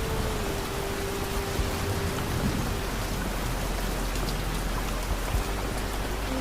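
Steady rain falling, an even hiss with scattered drop ticks, under a soft held music note that steps down a little about half a second in and fades.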